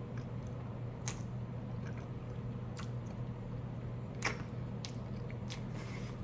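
A person chewing food close to the microphone, with a few scattered sharp clicks, the loudest about four seconds in, over a steady low hum.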